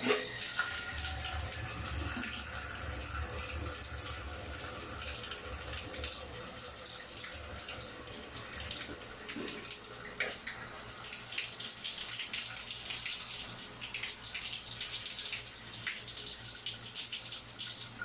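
Water running from a newly installed exposed shower valve as it is opened for a test. The flow starts suddenly and runs steadily.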